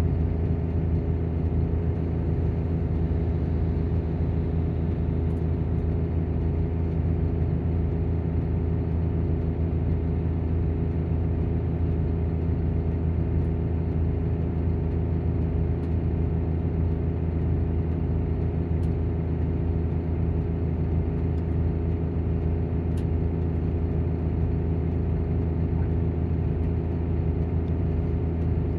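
Engine cooling fan of a Volvo coach with Plaxton bodywork running with the diesel engine: a steady, unchanging low drone.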